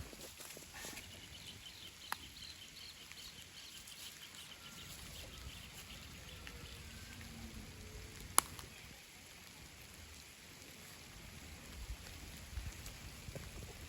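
Steady rain falling. A quick, high trill of chirps runs for a few seconds near the start, and two sharp clicks sound, the louder one about eight seconds in.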